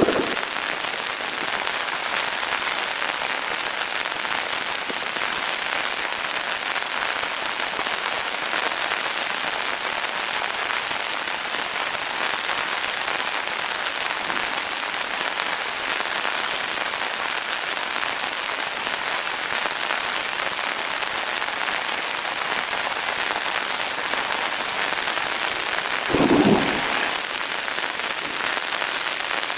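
Heavy rain falling steadily in an even hiss. One short, louder burst comes near the end.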